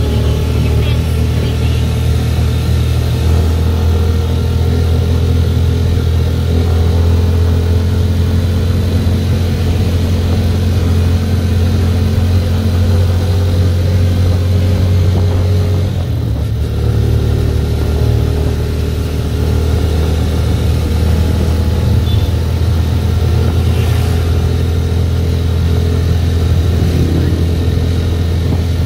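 Motorcycle engine of a motorized tricycle running steadily on the road. Its note dips briefly about halfway through, then picks up again.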